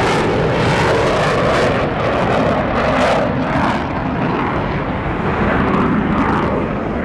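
Blue Angels jet flying past, a loud steady rush of engine noise that slowly drops in pitch as it passes.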